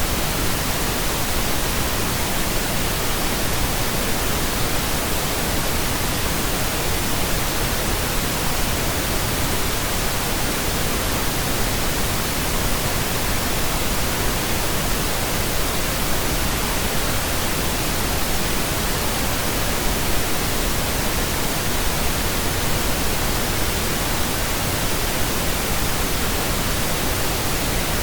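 Steady synthetic pink noise: an even, unbroken hiss across the whole range, with no change in level.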